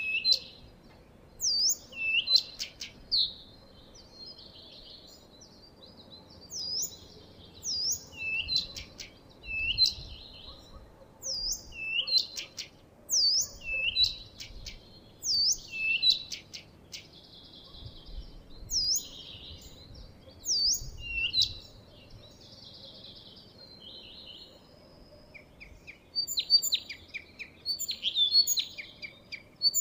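A songbird singing: clear whistled notes, each sweeping down and back up, repeated about once a second with scratchy chatter between them, turning to quicker, denser chattering near the end.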